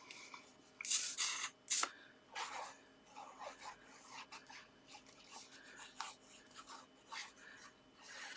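Paper and card stock being handled: a couple of louder rustles about a second in, a sharp tap just before two seconds, then faint rubbing and sliding of paper against paper.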